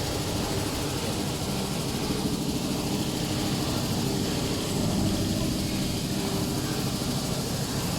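CNC wire-cut EDM machine running a dry run, with no cutting: a steady mechanical hum from its motors.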